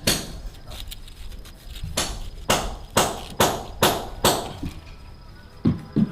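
Repeated sharp blows from a striking tool, each with a short ring. After a quieter stretch near the start they come in a steady run of about two a second.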